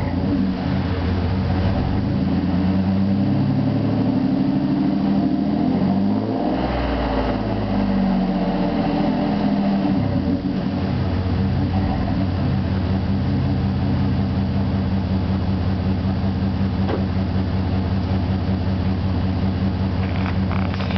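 2000 Chevrolet S-10 ZR2's 4.3-litre V6 running through a dual exhaust with Flowmaster 40 mufflers. The engine pitch sinks and climbs again over the first ten seconds or so, then holds steady.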